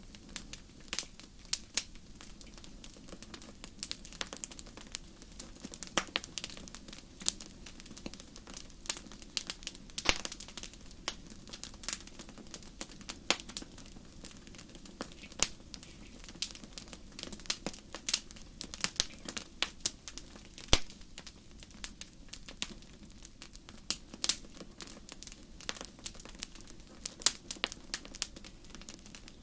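Wood fire burning in a fireplace: irregular sharp crackles and pops, several a second, over a low steady hiss of the flames.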